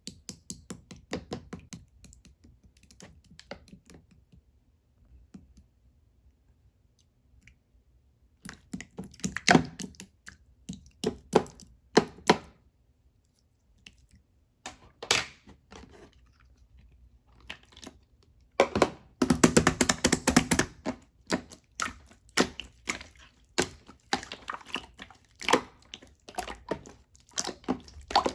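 Close-up handling sounds: irregular taps, clicks and crinkles of small objects being handled. They are sparse at first, grow frequent from about eight seconds in, and run into a dense stretch of crinkling about two-thirds of the way through.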